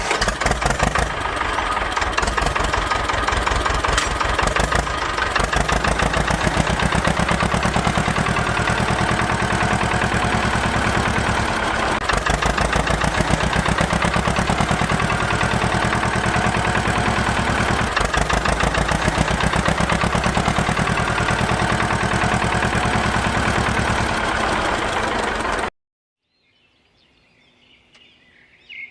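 A small engine running steadily with a rapid firing beat, cutting off abruptly a few seconds before the end.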